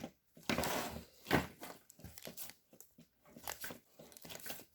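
Tape wrap being peeled and torn off a car engine wiring harness, in several short crinkling rips.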